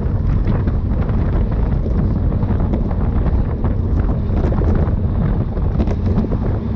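Steady wind rushing over the microphone, a constant low rumble like that of a camera riding along with a moving bicycle.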